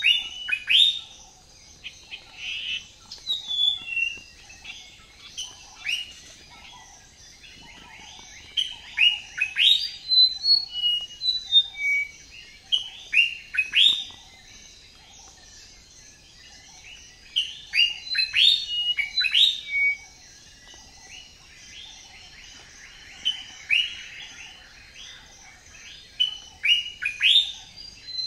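Several songbirds chirping and singing in clusters of quick, mostly falling chirps, over a faint steady high hiss.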